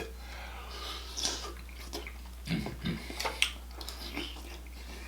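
Close-miked chewing and wet mouth sounds of a person eating mussels in sauce, with irregular small clicks and a louder wet mouthful about halfway through.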